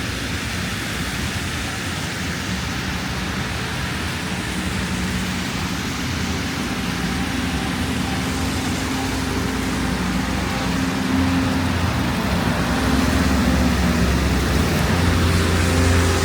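City street traffic over a steady rushing wash of wind and road noise. A motor vehicle's engine hum grows louder over the last few seconds as it comes close.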